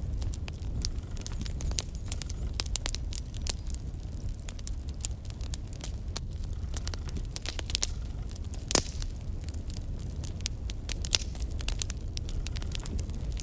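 Logs burning in a fireplace, crackling with frequent sharp pops over a low rumble of flames. One louder pop comes about nine seconds in.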